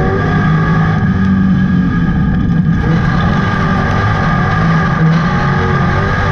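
Street stock race car's engine running hard, heard from inside the cockpit, with its note shifting a little and dipping briefly about two and a half seconds in.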